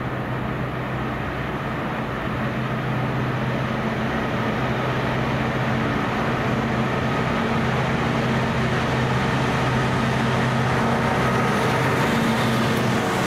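Train running with a steady low engine drone at one pitch, growing slowly louder as it approaches.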